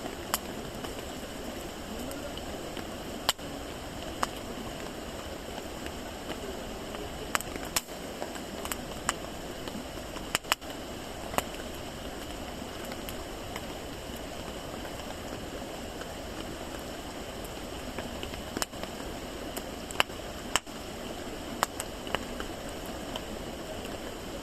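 Wood campfire burning with a steady soft hiss. Sharp, irregular crackles and pops from the burning wood come every second or two.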